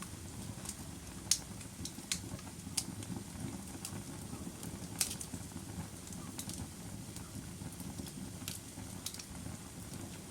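Log fire burning in a fireplace: a steady low rumble of the flames with sharp crackles and pops at irregular intervals. The loudest pops come about a second and a half in and about five seconds in.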